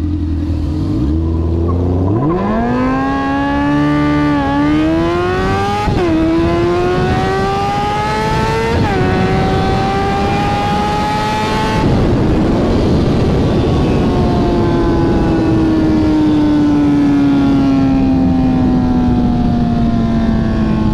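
Honda CBR600 F4i sport bike's inline-four engine accelerating hard from low revs. Its pitch climbs steeply, with quick upshifts at about four and a half, six and nine seconds in. Near twelve seconds it goes off the throttle and the revs fall slowly under loud rushing wind.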